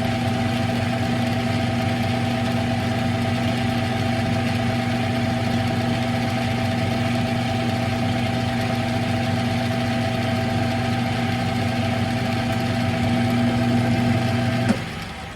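Smithy CB-1220XL 3-in-1 lathe running steadily with an even, constant-pitched hum from its motor and gearing. It is switched off near the end, the sound cutting off suddenly and dying away.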